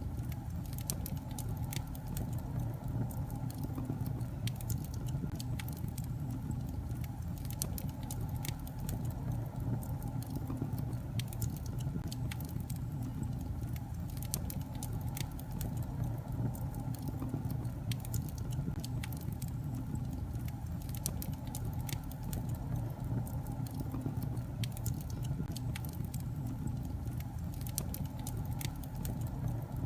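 Wood fire burning in a fireplace: a steady low rumble of the flames with frequent sharp crackles and pops from the logs, scattered irregularly throughout.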